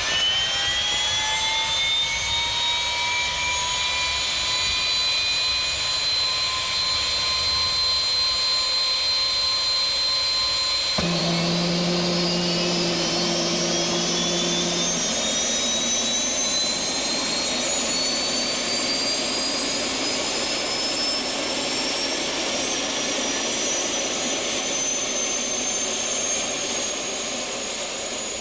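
Turbine engine of a LoPresti SwiftFIRE, a 420 hp turbine-powered Swift, whining. The whine climbs in pitch over the first few seconds and then holds steady. After an abrupt change about eleven seconds in, a new whine climbs slowly and steadily in pitch, with a low hum for a few seconds.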